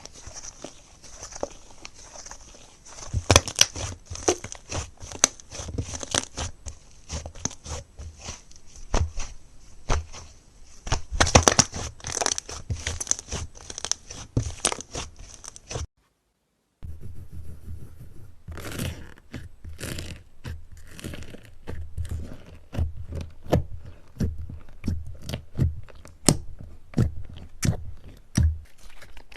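Hands squeezing and pressing crunchy slime, making a dense, irregular run of crisp crackles and pops. The sound cuts out for about a second some sixteen seconds in, then similar crunching resumes.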